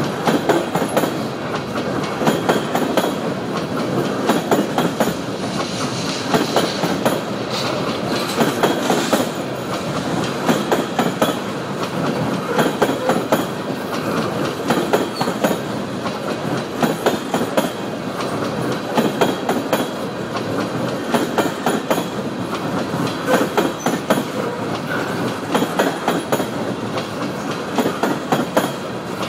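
Empty coal gondola cars of a long freight train rolling past, their wheels clicking over the rail joints in steady repeated groups over a continuous rumbling clatter.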